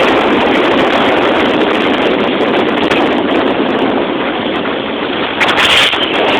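A boat under way: a loud, steady rush of motor, water and wind on the microphone, with a louder gust of wind about five and a half seconds in.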